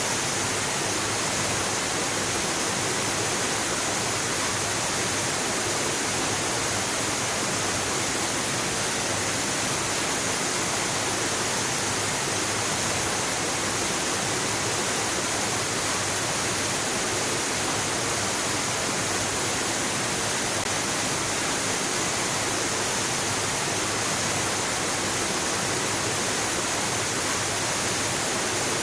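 Waterfall rushing: a steady, unbroken hiss of falling water with no change in level.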